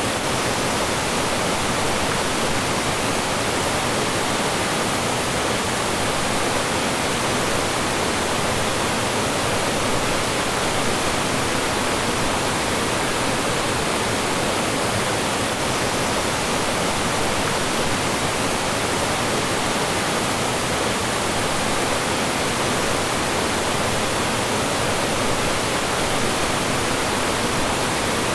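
Mountain stream rushing and splashing over rocks in small falls: a steady, unbroken wash of water.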